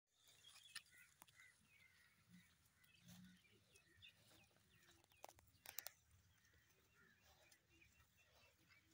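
Near silence: faint bird chirps scattered through, with a few soft clicks, a small cluster of them a little past halfway.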